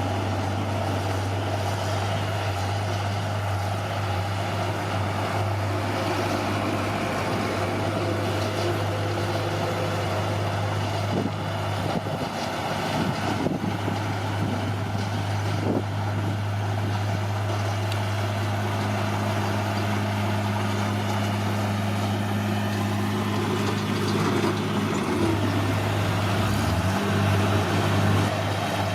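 Bulldozer's diesel engine running at a steady pitch, with the engine note dipping and recovering a couple of times near the end as the load changes.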